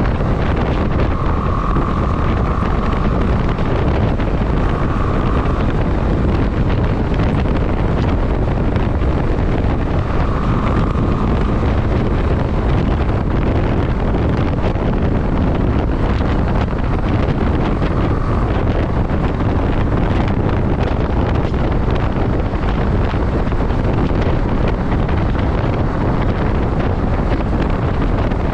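Steady rush of wind on the microphone of a moving motorcycle, with the bike's running underneath. A faint higher whine comes and goes a few times.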